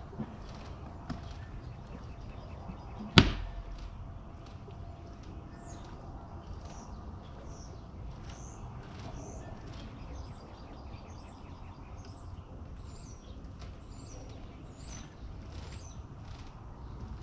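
A single sharp knock about three seconds in, then a bird calling over and over with short, high chirps, over a low steady rumble.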